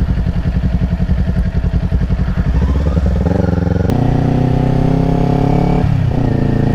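Kawasaki Ninja sport bike's engine heard from the rider's helmet: pulsing along at low revs, then rising in pitch as the bike accelerates about three seconds in and holding a steady note, with a brief dip near the end as the rider changes gear.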